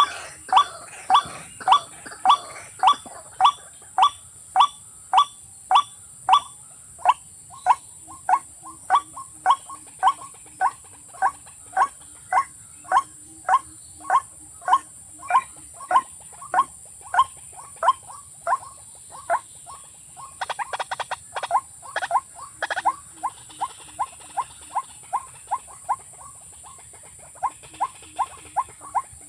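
A rail calling: a long, regular series of short, sharp notes, about two a second, breaking into a quicker run about 20 seconds in.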